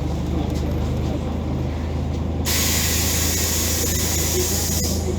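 Scania OmniCity city bus engine running with a steady low hum. About halfway through, a sudden hiss of compressed air from the bus's pneumatic system starts, lasts about two and a half seconds and cuts off with a click.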